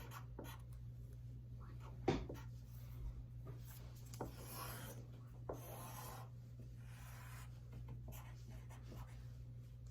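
Faint scratching strokes of drawing on paper, several drawn-out strokes in the middle, with a short knock about two seconds in over a low steady hum.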